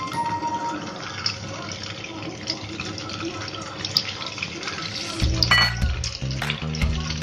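Whole boiled eggs, rubbed with turmeric and salt, frying in hot oil in a nonstick pan: a steady sizzle with small pops and ticks as more eggs are set down in the oil. Low background music notes come in about five seconds in.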